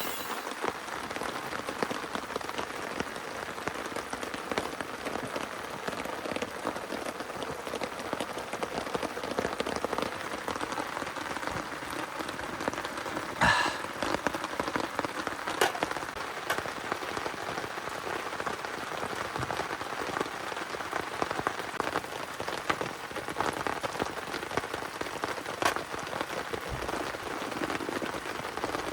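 Heavy rain drumming steadily on a waterproof tarp overhead, with scattered drips and one sharper drop hitting about 13 seconds in.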